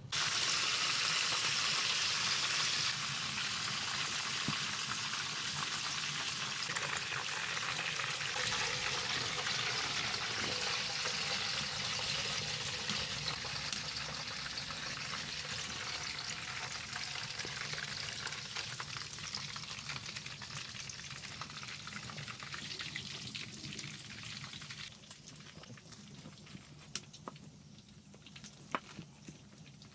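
Food frying in a hot pan, the sizzle starting suddenly as the food goes in and slowly dying down, with scattered pops and crackles.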